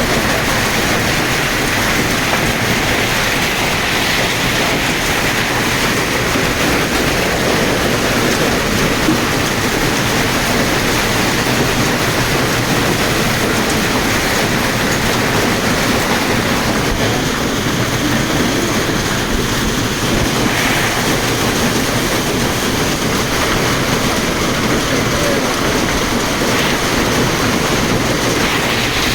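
Heavy rain pouring steadily, an even rushing hiss with no break or thunderclap.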